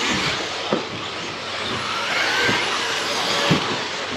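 Several electric 1/10 RC truggies and stadium trucks racing round a dirt track: brushless motors whining up and down in pitch over tyre and drivetrain noise. A few sharp knocks from trucks landing or hitting something, about three times.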